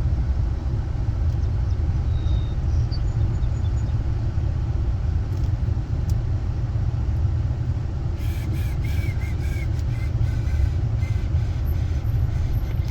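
Steady low rumble of a car driving, its engine, road and wind noise heard from inside the vehicle.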